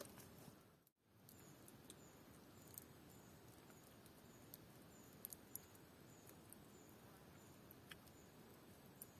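Near silence: faint outdoor ambience with a short, high chirp repeating about every two-thirds of a second and a few soft clicks. It cuts out briefly about a second in.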